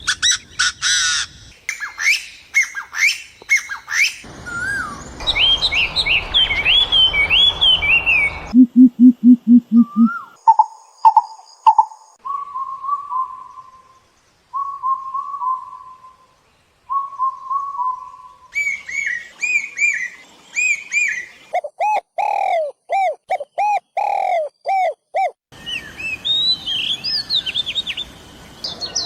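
A run of different songbirds' songs and calls, each cutting abruptly to the next every few seconds. It goes from rapid chirps to whistled phrases, then a short, low, rapidly pulsing call, then a series of repeated short whistled notes, and finally repeated rising, arched whistles and chirps.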